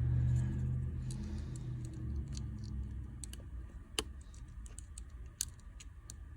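Scattered small clicks and taps of a phone's parts being handled as the display is fitted back onto an opened iPhone XR, with one sharper click about four seconds in. A low hum fades out over the first two seconds.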